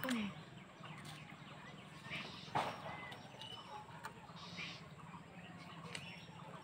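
Short, faint bird chirps about once a second over a steady low hum, with one sharp click a little over two and a half seconds in.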